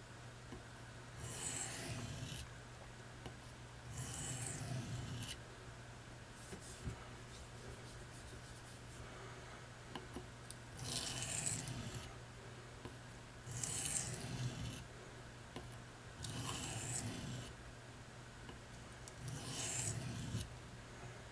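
Steel knife blade drawn across the coarse 400 side of a Norton IB8 combination oilstone: six separate scraping strokes, each about a second long with pauses between, over a steady low hum. The strokes are grinding the edge bevel to raise a burr on one side.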